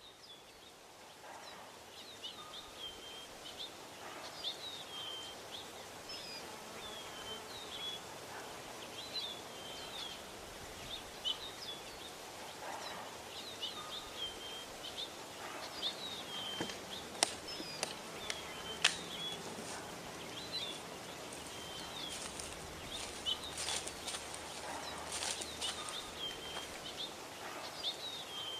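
Woodland ambience: a bird repeating a short chirping call every second or two, with rustling in dry leaves and a few sharp clicks about halfway through.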